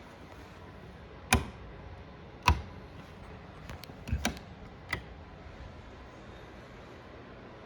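Sharp clicks, two spaced about a second apart and then a quick cluster of several, over a steady low background noise.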